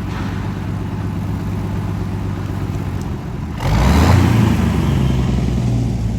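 Tractor engine running steadily. About three and a half seconds in, a louder engine cuts in and revs up, its pitch rising and then holding.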